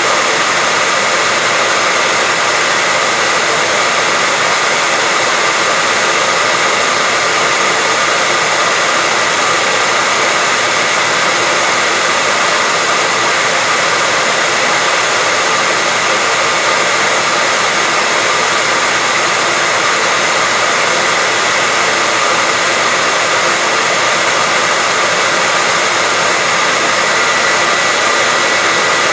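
Hair dryer running steadily: an even rush of blown air with a thin constant whine, unchanging throughout.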